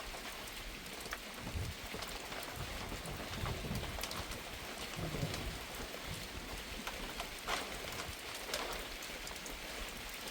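Steady rain falling, with scattered sharper drop hits standing out now and then.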